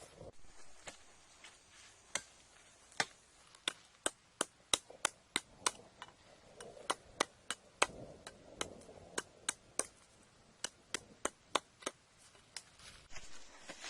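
Wood being chopped with a blade: a long run of sharp strikes, at times about three a second.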